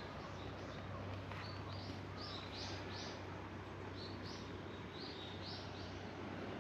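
A songbird calling in two runs of short, high, upward-sweeping chirps, each run of about five or six notes, over a steady low hum.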